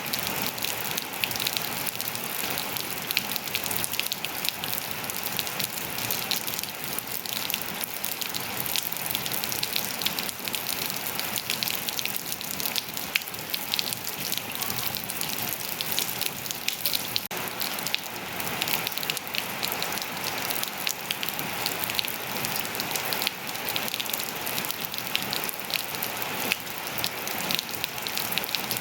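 Steady rain falling, a dense patter of individual drops hitting surfaces over a constant hiss.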